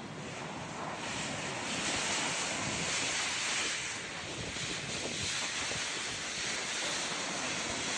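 Snowstorm wind rushing over the microphone in a steady hiss that swells from about a second and a half in and eases a little near the fourth second.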